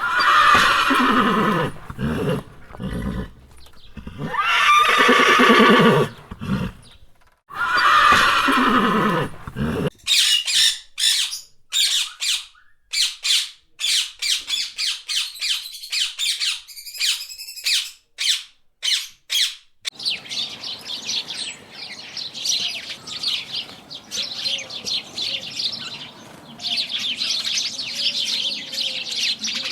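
A horse whinnying three times, each neigh falling in pitch, over the first ten seconds. Then a parrot gives rapid, short, high chirps and squawks, which turn into continuous chattering for the last ten seconds.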